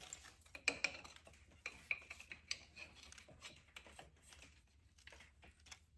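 Faint, scattered metallic clinks and clicks of hand work on the injection pump's fuel lines, with the caps being slid off the line ends.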